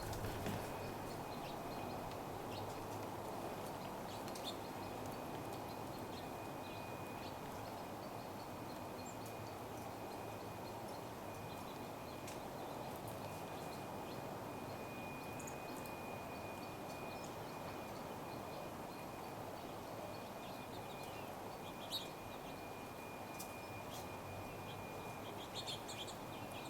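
Steady outdoor background noise with a faint continuous high whine, and scattered short, faint bird chirps, a couple more noticeable about two-thirds of the way in and near the end.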